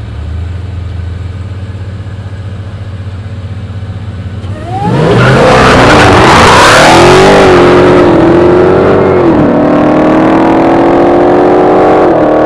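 Car engines idling, then about five seconds in launching hard from a standstill in a street race: a sudden loud burst of tyre noise and engines revving up, the pitch dipping once at a gear change and climbing again.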